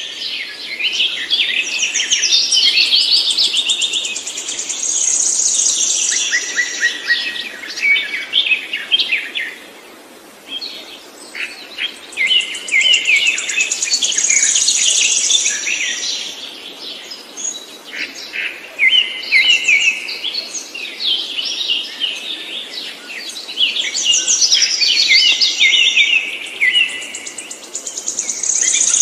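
A songbird singing long, complex phrases of rapid, varied chirps and trills, in several bouts of song with short pauses between them.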